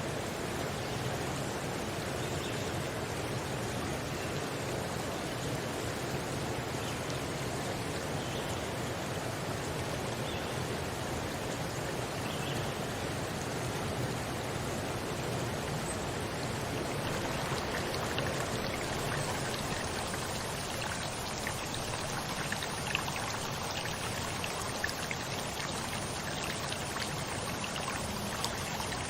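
Running water of a stream, a steady rushing flow, with a few small splashes or drips standing out in the second half.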